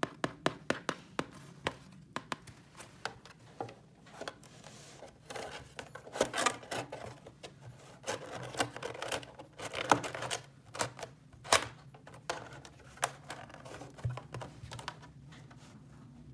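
Hands working with small objects: a quick run of light clicks, about four a second, then scattered taps with brief rustling and scraping.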